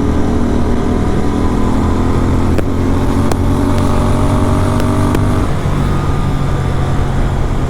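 Superbike engine with a full-system exhaust running while riding at a steady pace. About five and a half seconds in, the engine note drops lower, as when the throttle is eased off.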